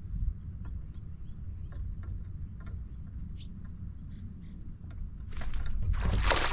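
Low wind rumble on the microphone with scattered faint ticks, then from about five seconds in a loud rush of splashing water at the kayak.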